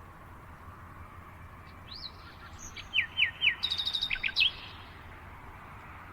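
Songbird calling: a few quick falling chirps, then a fast trill, over a steady background hiss.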